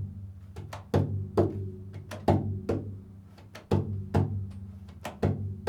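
Improvised percussion music: struck strokes in an uneven rhythm, about one or two a second, each ringing out and fading over a steady low drone.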